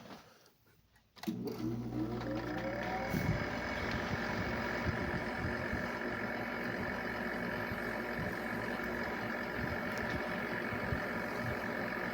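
8,500 BTU window air conditioner switched on about a second in: its fan motor spins up with a rising whine over a couple of seconds, then runs steadily with a constant hum and rush of air.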